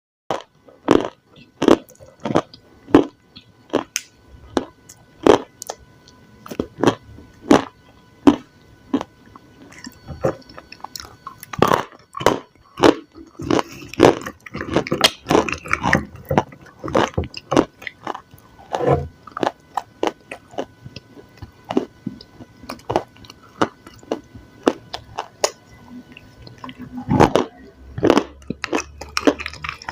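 Dry clay with clay paste being bitten and chewed: a long run of sharp crunches, about one a second at first and coming thicker and closer together in the middle.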